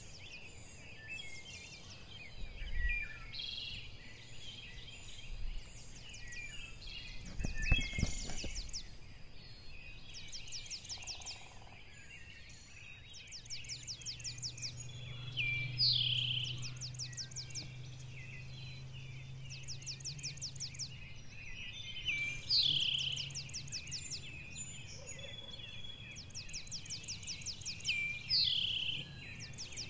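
Shrike calling: bursts of fast, dry ticking chatter every two to three seconds, with short rising and falling chirps between them. A single thump about eight seconds in, and a faint low hum through the middle.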